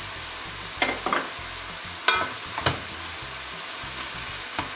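Beef, onions and peppers frying in a stainless steel pot with a steady sizzle, while pepper and tomato paste is stirred in with a wooden spoon that scrapes and knocks against the pot five or six times.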